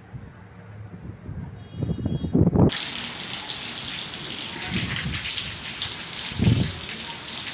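Heavy rain pouring down in a steady, dense hiss that starts abruptly about a third of the way in, with a couple of dull low thumps within it. Before that there is only low rumbling and a few dull thumps.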